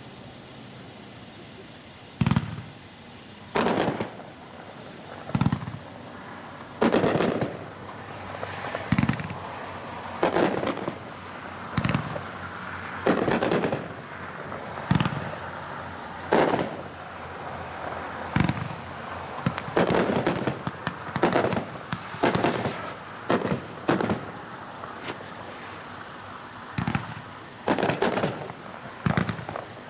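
A multi-shot aerial fireworks cake firing in sequence, heard from a distance: about twenty sharp booms of shells bursting, roughly one every second or so, with some spacing more tightly near the middle.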